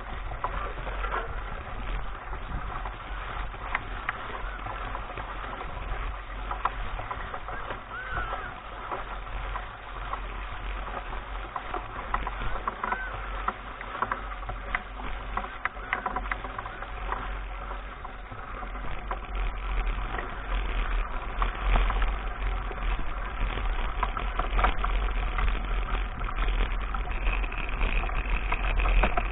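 Mountain bike ride heard from an action camera: constant wind rumble on the microphone with tyre and frame rattle over a dirt track, getting louder about two-thirds of the way through.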